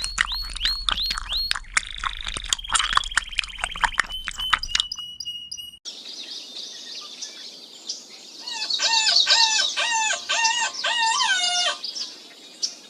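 Birds chirping: a fast run of high chirps for about six seconds, then, after an abrupt change, a series of short repeated calls that fall in pitch.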